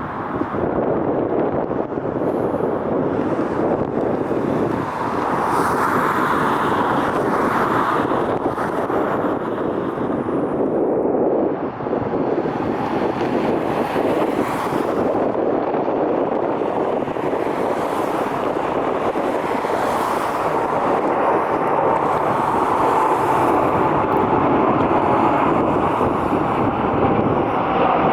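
Jet airliner engines running loudly and steadily at close range, with a faint high whine coming in over the last third, and wind rumbling on the microphone.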